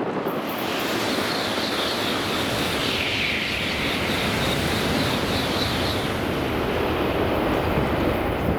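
Shinkansen train running along the platform at speed: a loud, steady rush of air and rail noise with a high hiss on top, lasting the whole few seconds and ending sharply.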